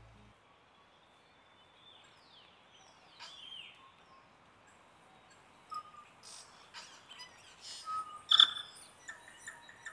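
Birds chirping and calling over a faint steady hiss: short sweeping chirps at first, then a denser run of calls, the loudest of them about eight seconds in.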